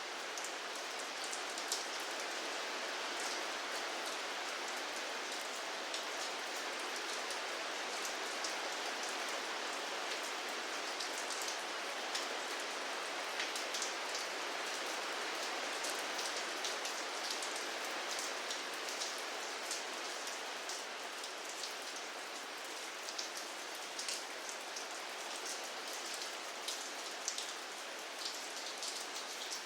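Steady rain falling, an even hiss with many small, sharp drop taps on a surface.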